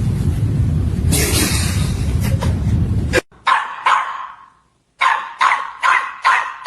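A steady rumbling noise with scattered clicks cuts off about three seconds in, replaced by a dog barking sharply: two barks, a short pause, then a rapid run of five, each bark trailing off briefly.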